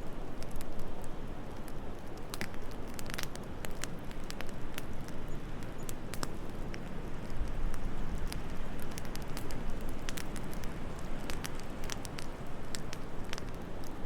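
Fireplace crackling with many small, irregular sharp pops over a steady low rushing of wind.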